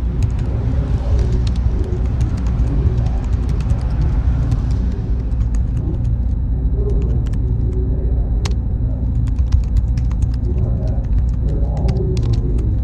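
Server-room ambience: a steady low hum of running machines, with scattered sharp clicks over it. A thin, steady high whine joins about six seconds in.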